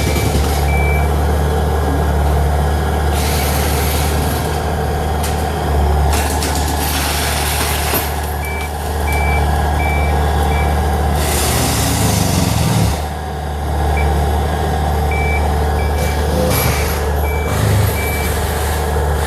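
Heavy tractor cutting down trees: its engine runs steadily under load while its reverse alarm beeps in several stretches. Bursts of harsh rushing noise come and go a few times over the engine.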